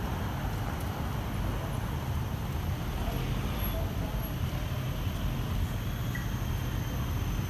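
Steady low rumble of road traffic, with a few faint thin tones above it.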